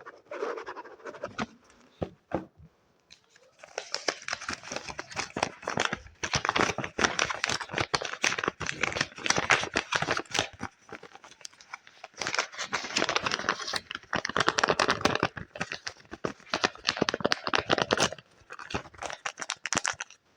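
Close-miked fingers rapidly scratching and crinkling paper, a dense crackly run of strokes. It breaks off briefly about two seconds in, then goes on almost without pause.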